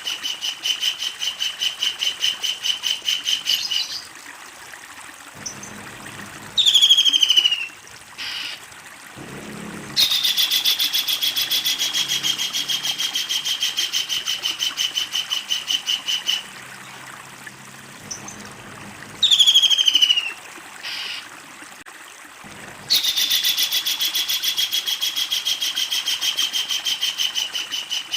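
Kingfisher calling: long, fast chattering trains of evenly repeated notes, three bouts in all. Between the bouts come two loud, short calls that fall in pitch.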